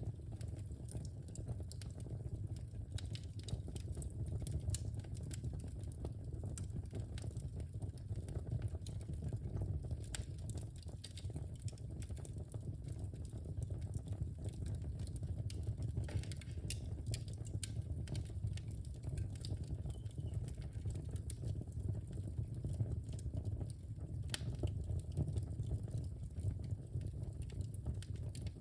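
Wood fire burning in a fireplace: a steady low rumble of the flames with scattered crackles and pops, a few sharper pops standing out now and then.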